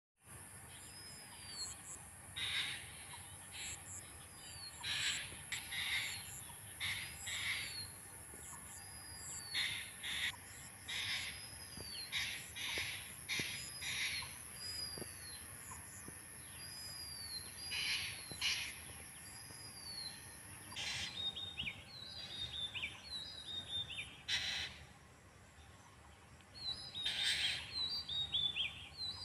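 Songbirds calling in trees: one bird repeats a short rising-and-falling whistle about once a second, with scattered chirps from others, and in the last third a bird gives quick runs of falling notes. A steady high whine sounds under them and stops about two-thirds through.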